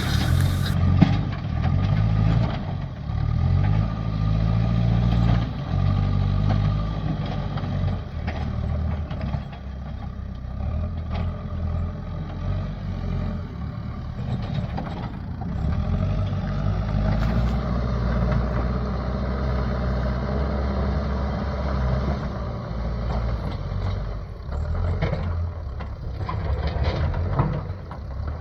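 Excavator's diesel engine running, its pitch rising and falling under load as it pushes rubble and large stones, with occasional knocks.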